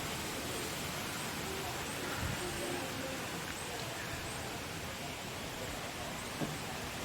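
Strong wind blowing, a steady even hiss with no breaks.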